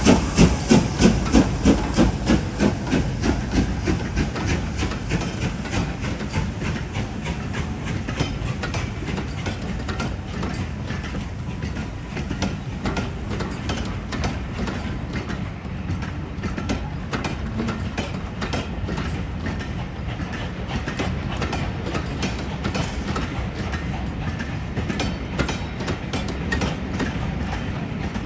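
Steam locomotive passing: loud, regular exhaust beats that fade over the first few seconds, then the train's carriages rolling by with steady rail clatter and wheel clicks.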